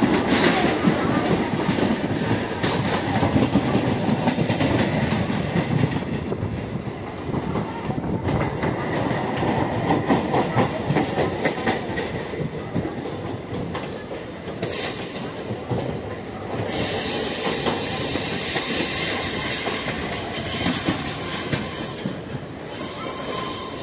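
Suburban electric local train running along the track, heard from an open doorway: a steady rolling rumble with wheels clacking over rail joints and points. A high hiss grows louder about two-thirds of the way through.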